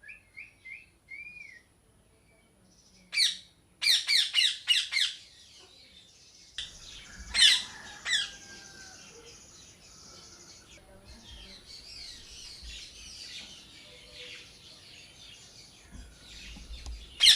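Parrots calling: a few short whistled notes, then a loud squawk about three seconds in and a quick run of about six harsh squawks. Two more loud squawks come around seven and eight seconds, and after them softer chirps and chatter from other birds continue.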